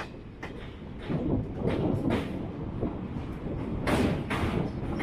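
Indian Railways train running on the rails: a steady rumble that grows louder, with irregular clanks and knocks from the wheels and coaches.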